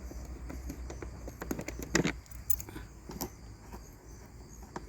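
Scattered light clicks, taps and scrapes of hands working parts loose on a motorcycle's air box, with a sharper knock about two seconds in.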